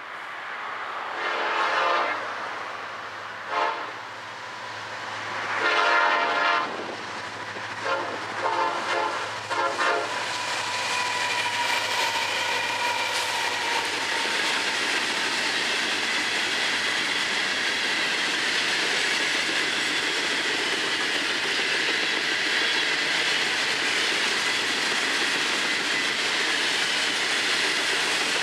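Florida East Coast Railway freight train: the diesel locomotives' horn sounds long and short blasts, then a few quick toots, over the low hum of the engines. After that a long string of open hopper cars rolls past with steady wheel-on-rail clatter.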